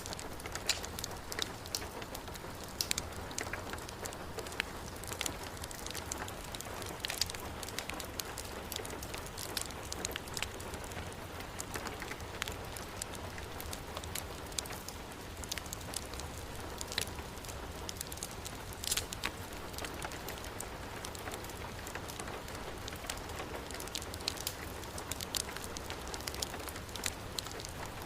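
Steady heavy rain with a wood fire crackling, many short sharp pops scattered irregularly over the constant hiss.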